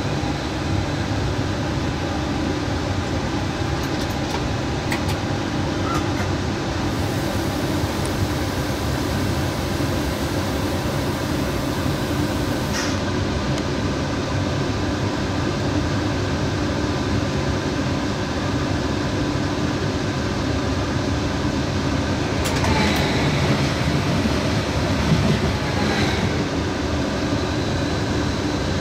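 Steady running noise inside a train's driver's cab at low speed: a low rumble and hum with a steady fan-like hiss, broken by a few sharp clicks. Near the end comes a louder stretch of wheel clatter with a faint squeal as the train runs over points.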